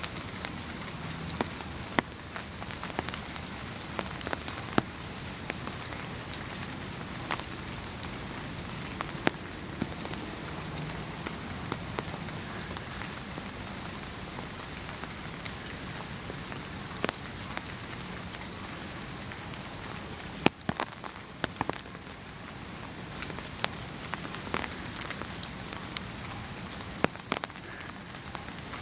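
Steady rain falling, an even hiss with irregular sharp ticks of individual drops hitting a hard surface.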